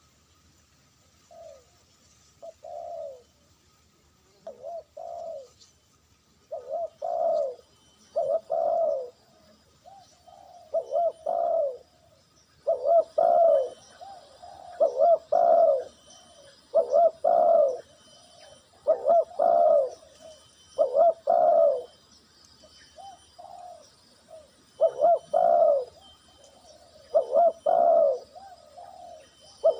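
Spotted dove cooing over and over, mostly in paired phrases about every two seconds, softer at first and louder after about twelve seconds. The dove is a decoy calling to lure wild doves.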